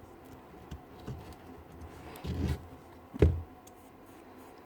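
Knocks and clatter of a cordless drill's casing and parts being handled during disassembly. There are a few light taps, a short rattling clatter about two and a half seconds in, and one sharper knock just after three seconds.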